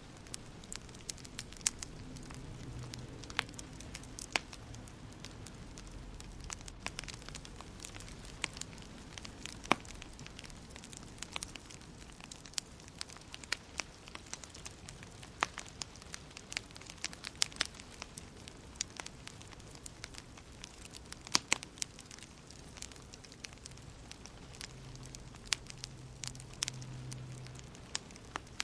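Wood fire crackling in a fireplace: irregular sharp pops and snaps over a soft hiss, with a low rumble from the flames in places.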